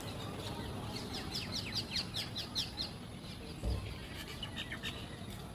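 A bird singing a quick run of short, high, downward-sliding notes, about six a second, then a shorter second run near the end. A brief low thump falls between the two runs, over a steady low background rumble.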